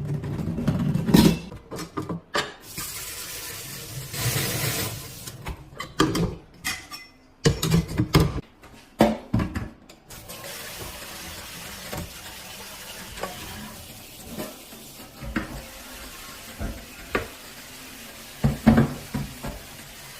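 Water running from a faucet into a kitchen sink. The first half has many knocks and clatters and a burst of hiss; from about halfway a steady hiss of running water continues, with occasional light ticks.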